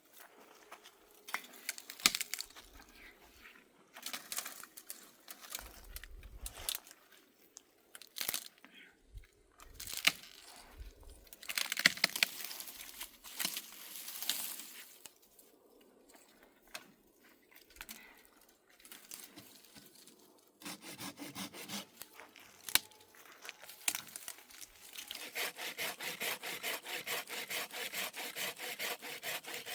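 Woodworking: scattered knocks, scraping and rustling of wood being handled, then from near the end a saw cutting through wood in fast, even strokes.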